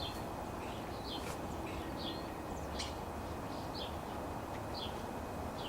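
Small birds chirping in the background: short high chirps repeated roughly every half second to a second, over a steady low background noise, with a couple of light clicks.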